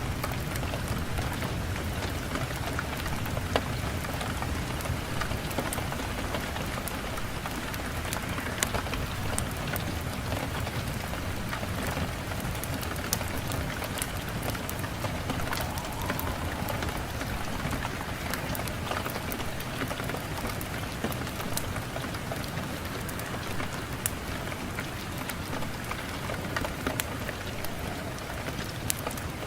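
Steady rain falling, a continuous hiss with a low rumble beneath it, dotted with scattered sharp clicks.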